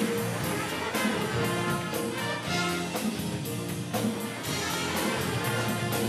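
Upbeat instrumental introduction led by brass, trumpets and trombones, over a steady beat.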